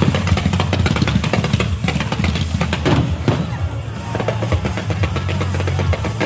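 Dense, rapid crackling of firecrackers or fireworks, many sharp pops in quick succession, over a steady low rumble and music.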